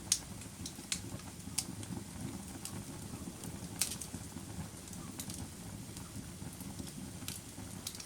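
Campfire crackling: a low steady rush of burning under sharp pops that come every second or so, the loudest right at the start and about four seconds in.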